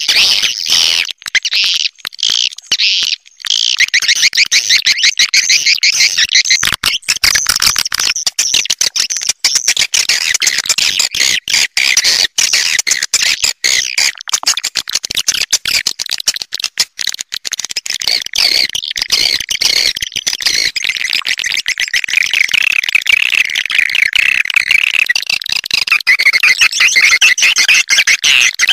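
Swiftlet lure call: a dense, continuous chorus of rapid, high chittering twitters from many swiftlets, of the kind played to draw swiftlets into a nesting house.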